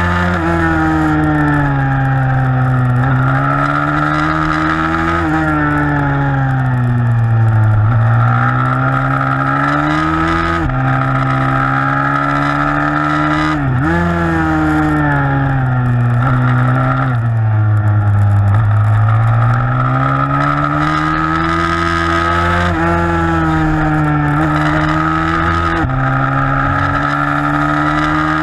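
A 160cc single-cylinder four-stroke pitbike engine racing hard. Its note climbs and falls repeatedly as the rider accelerates and backs off through the corners, with a few sudden steps in pitch at gear changes.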